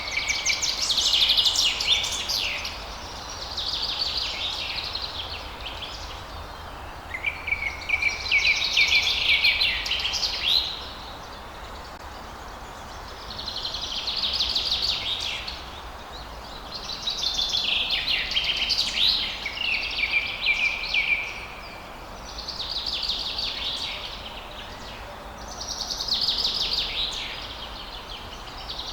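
A songbird singing a run of phrases, each about two seconds of rapid trilled, twittering notes, with short pauses between them, over a steady background hiss.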